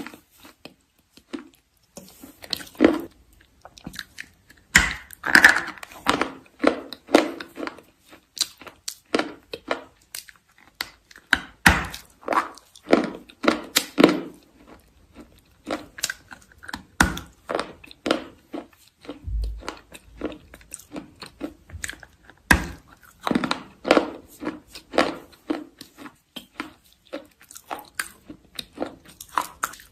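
Close-up crunching of chalk being bitten and chewed: clusters of sharp, crackly crunches coming in bursts, with short pauses between them.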